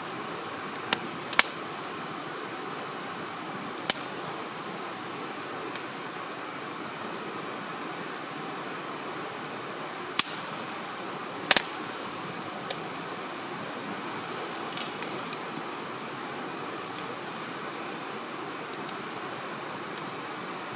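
Wood campfire burning and crackling, with a few sharp pops from the burning logs, the loudest near the start and in the middle, over a steady hiss.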